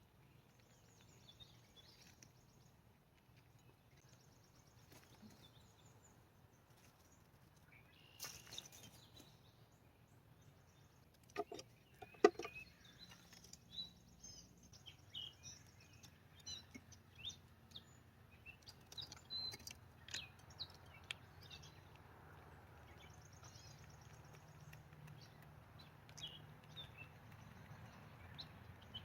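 Small birds chirping and twittering on and off over a faint outdoor background, with a few sharp knocks about twelve seconds in.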